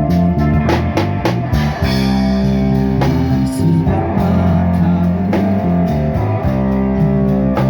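Live busker band playing a song, led by guitar with a drum kit keeping the beat.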